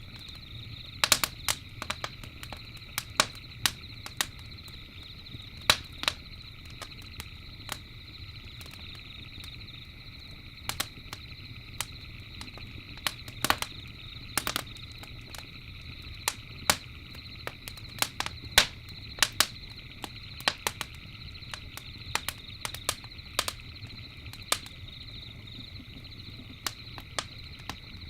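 Campfire crackling, with irregular sharp pops and snaps several times a second over a low steady rumble, and a steady high-pitched hum behind it.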